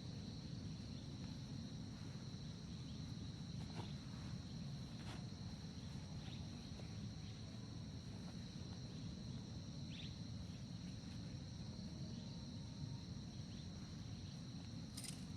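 Forest insects calling in a steady, continuous high-pitched drone, over a low background rumble, with a few light clicks scattered through.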